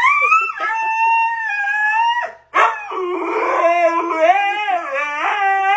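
A dog howling in two long calls: the first rises and holds for about two seconds, then after a brief break a second howl wavers up and down in pitch.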